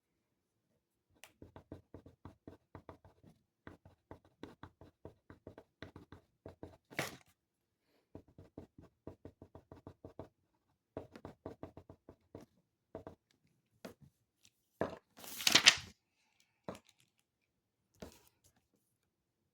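Writing on paper: quick runs of short scratches and taps from the writing tip. About fifteen seconds in, a louder paper rustle, like a page being turned or handled.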